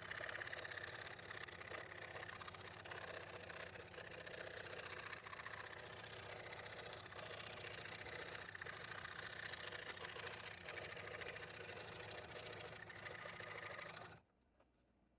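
Scroll saw running steadily, its fine blade cutting thin 1/8-inch Baltic birch plywood; it stops suddenly about a second before the end.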